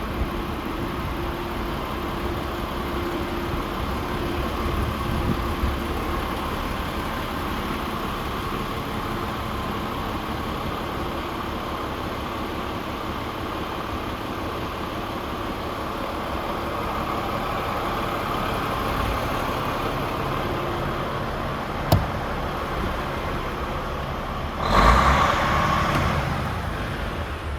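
A DAF XF106 truck's Paccar 460 bhp Euro 6 diesel engine idling steadily. There is a single sharp click about three-quarters of the way through, and a sudden loud rush of noise near the end that fades out.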